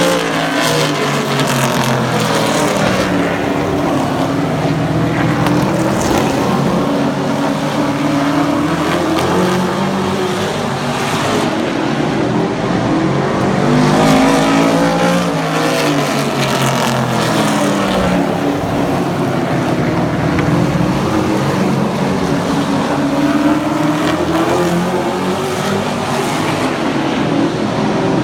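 Several super truck race engines running hard in a pack, their pitch rising and falling together roughly every twelve seconds as they go round the oval.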